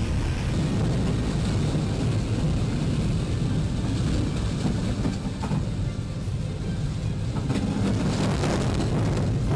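Steady low rumble of a train running on the track.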